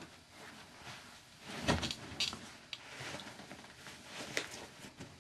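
A dull thump about a second and a half in, followed by a few sharp clicks and knocks.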